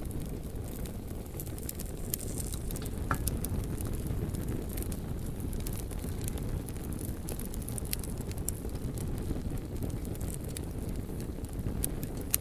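Wood fire burning: a steady low rumble of flames with scattered sharp crackles and pops. A brief rising whistle sounds about three seconds in.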